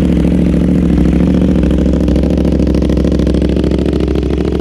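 KTM 790 Duke's parallel-twin engine idling steadily through an Austin Racing aftermarket exhaust, which the seller believes is a de-cat system, just after being started.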